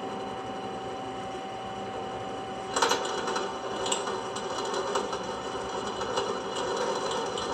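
Electric drill motor running with a steady whine, then a louder, rattling cut from about three seconds in as the small bit bites into metal.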